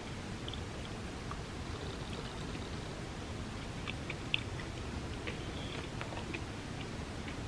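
Close-miked chewing of a vegan spam musubi: soft, scattered wet mouth clicks over a steady low hiss, with one sharper click about halfway through.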